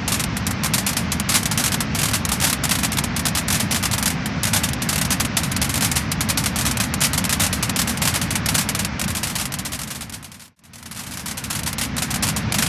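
Wood fire crackling and popping, with dense sharp crackles over a steady hiss. About ten and a half seconds in, the sound fades briefly to near silence and then comes back.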